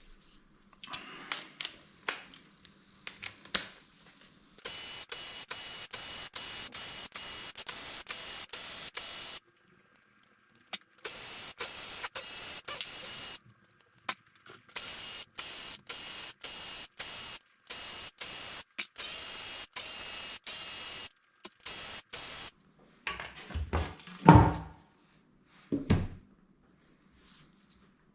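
Compressed air hissing in long bursts, as from an air tool or blow gun during the engine strip-down, broken by rapid regular dropouts and carrying a faint whistle. Short metallic knocks and clanks come before the hissing and again near the end.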